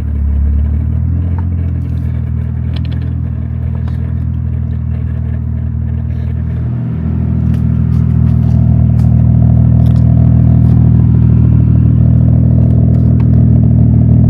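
1JZ inline-six engine in an MK3 Supra running at low speed with a steady note. It grows louder about seven seconds in and holds there.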